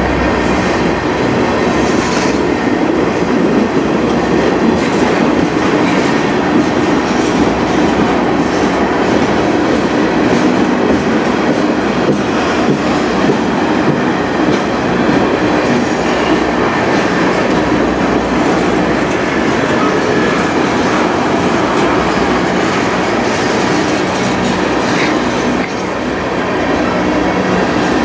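Freight train tank cars rolling past on the nearest track: a steady, loud noise of steel wheels running on the rails.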